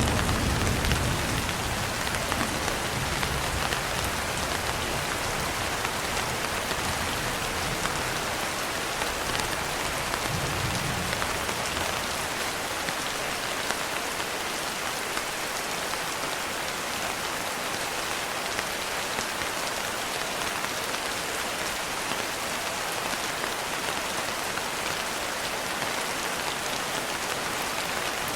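Steady, dense rainfall, with a low rumble of thunder fading out in the first couple of seconds and another brief distant rumble about ten seconds in.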